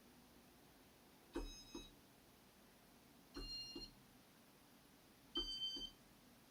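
Casablanca Inteli-Touch fan control pressed three times, about two seconds apart: each press gives a click, a short electronic beep and a click on release, each beep a little higher in pitch than the last.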